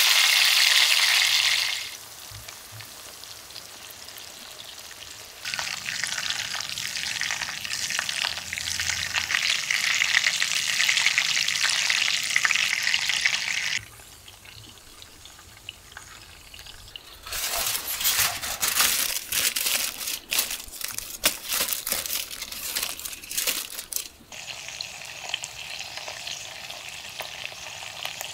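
A thick bone-in steak sizzling in oil on a black griddle pan, in several stretches that start and stop abruptly. In the middle comes a stretch of sharp crackling and spattering pops. Near the end, vegetables and garlic cloves sizzle in the pan with a steadier, quieter hiss.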